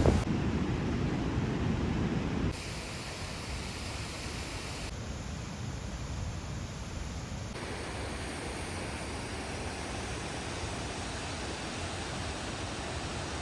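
Steady rushing of the Shdugra mountain waterfall, an even roar of falling water. Its level and tone change abruptly three times, about 2.5, 5 and 7.5 s in, as at edit cuts, and it is louder in the first couple of seconds.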